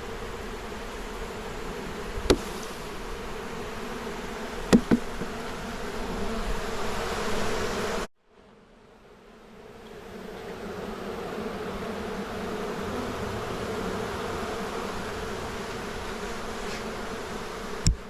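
Steady buzzing hum of a large mass of honeybees at an opened hive, with a few sharp knocks, two of them close together about five seconds in. The hum cuts out abruptly about eight seconds in and fades back up over the next few seconds.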